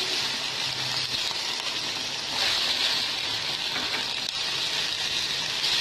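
Vegetables frying in hot oil in a large flat pan, a steady sizzle that grows a little louder about two and a half seconds in, as chilli sauce goes in.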